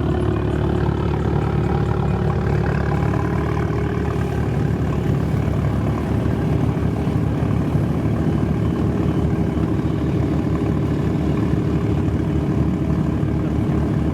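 Modified car engine idling steadily and loudly, a deep even rumble with no revving.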